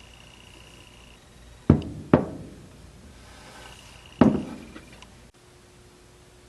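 Three sharp knocks, like hard objects striking each other: two about half a second apart a couple of seconds in, then a third about two seconds later, each with a short ringing decay.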